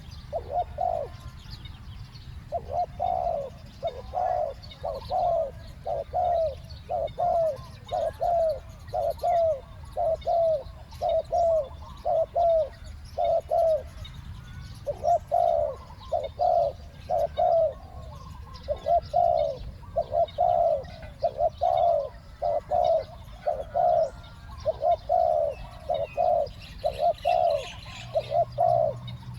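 Spotted doves cooing: a long run of short, low, repeated coo notes, about one to two a second in phrases, with a brief pause partway through. Faint chirps of other small birds sound behind.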